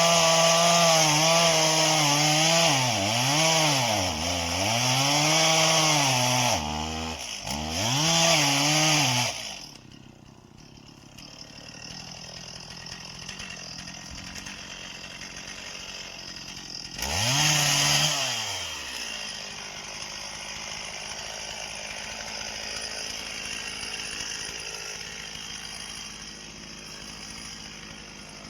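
Chainsaw running at high revs through wood, its pitch dipping and recovering again and again as the chain bogs in the cut, until it drops away about nine seconds in. A little past halfway there is one short rev that winds down, then only a faint steady hum.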